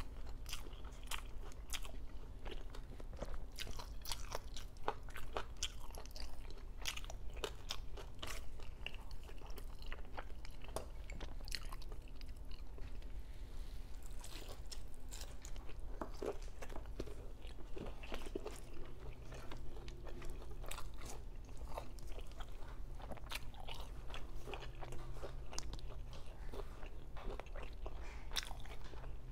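Chewing and crunching of crispy lechon kawali, deep-fried pork belly with crackling skin: a dense, irregular run of sharp crunches and mouth sounds.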